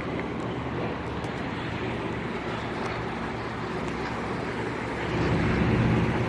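Steady drone of a piston-engined propeller aircraft passing, muffled by wind on the microphone, swelling louder in the last second or so.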